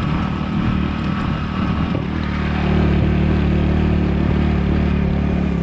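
Motorbike engine running at a steady cruising speed under way, with wind and road noise. The engine note grows slightly louder about halfway through.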